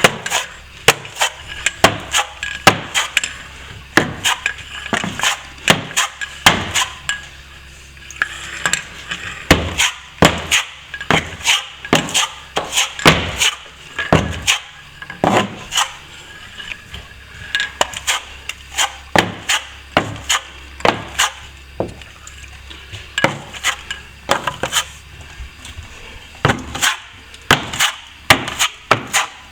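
Plastering trowel working plaster into a ceiling-to-wall crack: irregular sharp clicks and clinks of steel on steel, often one or two a second, with scraping between them.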